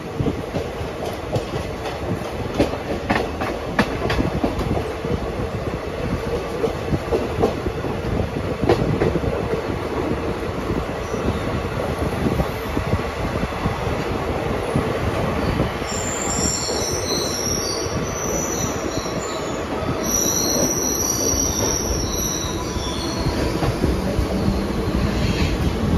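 Passenger express train running along the track, with rumbling wheels and scattered clicks over rail joints. From about sixteen seconds in, high-pitched wheel squeal comes in for several seconds, as on a curve.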